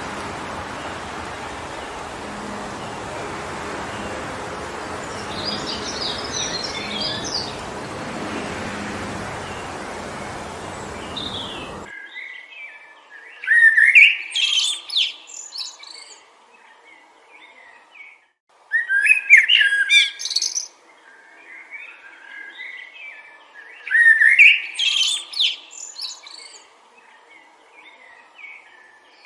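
Wind blowing steadily through forest trees with a faint bird twitter. About twelve seconds in, the wind cuts off suddenly and a songbird sings loud warbling phrases, three songs about five seconds apart.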